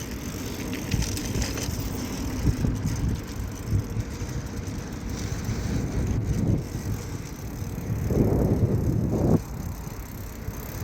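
Bicycle on the move: wind buffeting the microphone over tyre and road rumble. It gets louder about eight seconds in, then drops off sharply about a second later.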